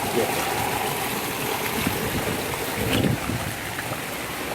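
Heavy rain pouring down with running water: a steady rushing hiss.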